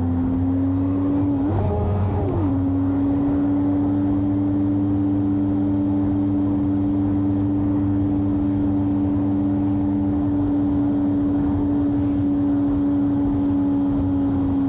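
Mazda B-series pickup's engine, running on a Holley Sniper EFI, pulling steadily on the road: an even drone that climbs slowly in pitch, with a brief rise in engine speed about two seconds in that drops back.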